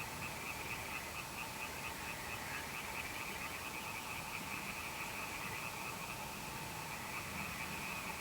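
A chorus of frogs calling at night: rapid, closely packed pulsed calls, with a fainter lower steady call beneath.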